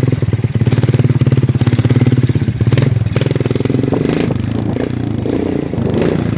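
Motorcycle engine running steadily at low revs, its firing beat rapid and even, with a few short clattering knocks about three and four seconds in.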